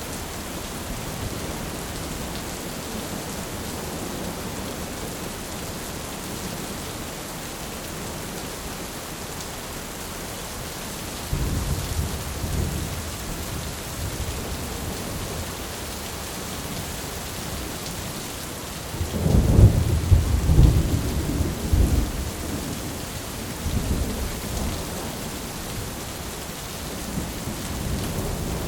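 Thunderstorm ambience: steady rain with thunder. A low rumble starts about 11 seconds in, and a louder rumble of thunder comes about two-thirds of the way through and rolls on for a few seconds before fading into the rain.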